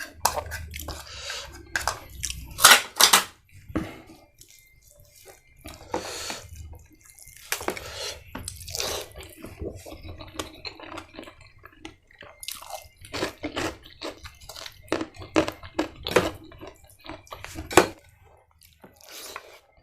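Close-up eating sounds: wet chewing and mouth smacking in irregular bursts, with a few louder sharp clicks.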